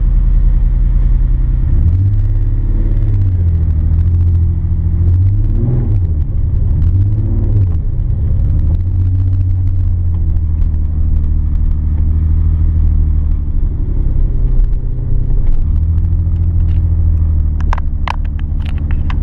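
Nissan 300ZX's twin-turbo VG30DETT V6 running, its note rising and falling a few times early on and then holding steady, with a couple of sharp clicks near the end. It is a freshly built engine being broken in on only a couple of pounds of boost.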